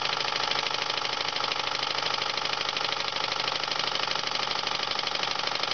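Jensen No. 5 model steam engine running steadily at speed under the load of lighting a small bulb: a fast, even chuffing clatter with a hiss, holding at an even pace.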